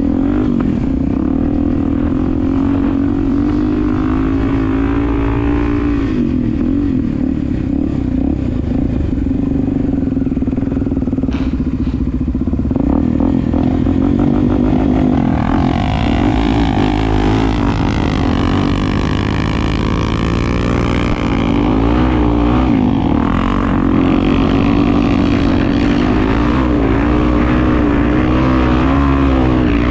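Honda Tornado 250's single-cylinder four-stroke engine running under way, its pitch rising and falling with the throttle, more changeable in the second half.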